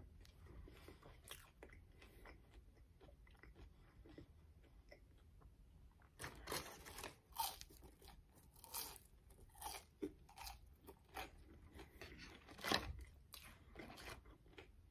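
Chewing and crunching of french fries: soft, scattered chewing at first, then a run of sharp crunches from about six seconds in, the loudest near the end.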